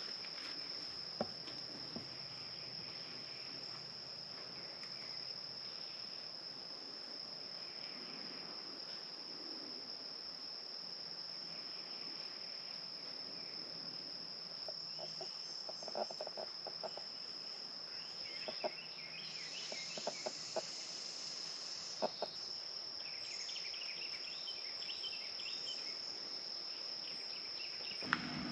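Insect chorus, a continuous high-pitched drone, with a few faint clicks and knocks around the middle.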